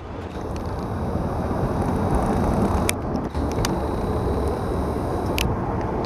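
Steady low rumble of a South Western Railway Class 444 electric multiple unit, with three short sharp clicks about halfway through and near the end.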